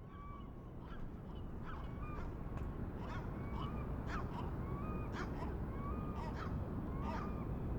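Birds calling again and again, short level notes mixed with quick upward-sweeping cries, over a steady low rumble. The sound fades in at the start.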